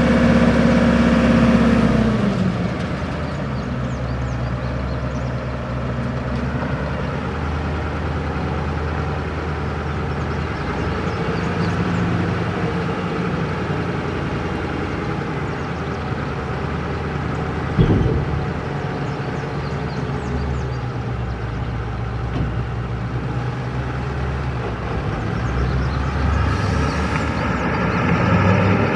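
The 8.2-litre GM turbo diesel V8 of a 1987 GMC TopKick dump truck running. It is held at higher revs, drops back to idle about two seconds in, and rises again near the end. A single sharp knock comes about midway.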